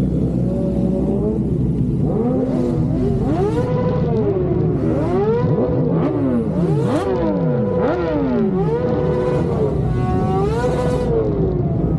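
Several superbike engines revved over and over, overlapping one another, each rev climbing in pitch, holding briefly and falling back, over a steady low rumble of idling.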